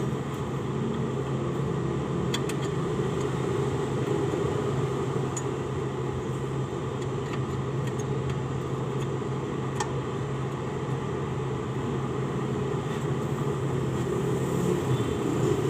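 Steady low engine hum running in the background, with a few faint, sharp metallic clicks from hand tools as the intake manifold is worked loose.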